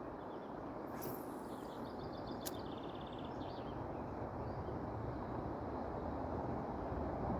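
River water rushing steadily, with a few short bird chirps, a quick run of them about two and a half to three seconds in, and one sharp click about two and a half seconds in.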